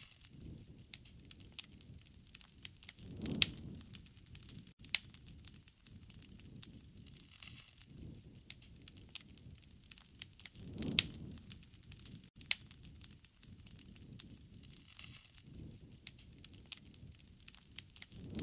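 Wood fire burning, with many irregular sharp crackles and pops over a low rushing of flame that swells twice, about three and eleven seconds in.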